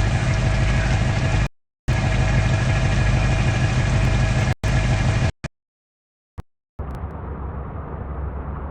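A truck's engine running with a loud low rumble, cut off abruptly by silent gaps about a second and a half in and again past the middle; from about seven seconds a duller, muffled stretch of the same kind of engine sound follows.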